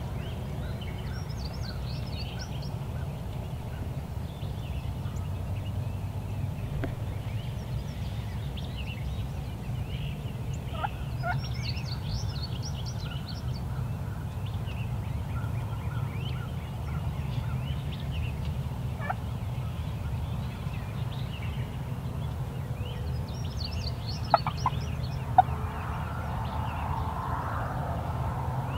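Wild turkey gobbler gobbling three times, about ten seconds apart, over a steady low rumble. Two sharp clicks stand out near the end.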